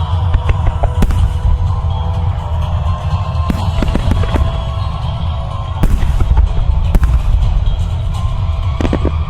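Aerial firework shells bursting over music, with sharp bangs about a second in, several between three and a half and four and a half seconds, and more around six, seven and nine seconds. Under them runs steady, heavy bass and sustained music.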